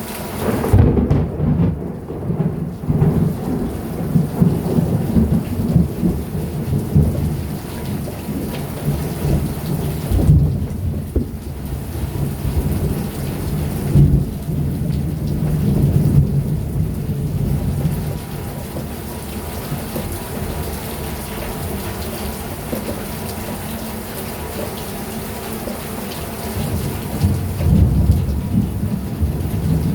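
Heavy summer rain pouring steadily, with thunder rumbling. A long rolling rumble builds just after the start and fades out by about two-thirds of the way through. Another rumble swells near the end.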